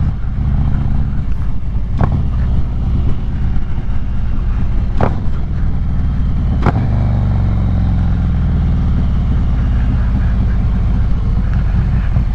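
Motorcycle engine running steadily while riding, heavy in the low end, with a few brief sharp clicks along the way.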